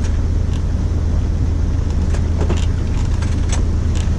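Sailboat's inboard engine running steadily under way, a deep even drone, with a few faint clicks in the second half.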